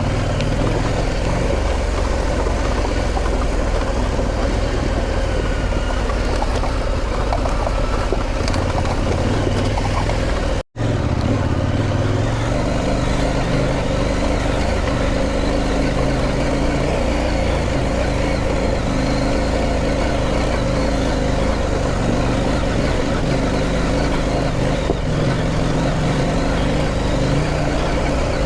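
Motorcycle engine running steadily under way, mixed with a constant rush of wind and road noise. The sound cuts out completely for a split second about eleven seconds in, then carries on as before.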